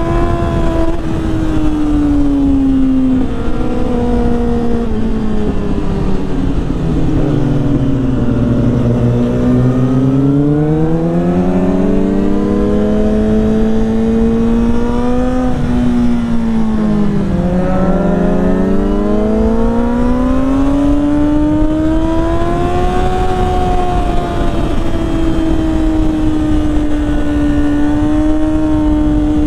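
Yamaha R6 sport bike's inline-four engine running at speed, its pitch sinking slowly twice as the bike slows and rising again as it accelerates, under steady wind and road noise.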